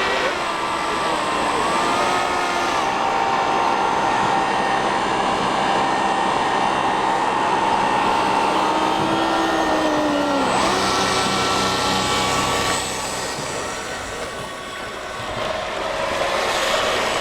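Electric motors of radio-controlled model boats whining on the water, several pitches gliding up and down as the boats speed up and slow down, over a steady hiss. The sound dips for a moment about three-quarters of the way through.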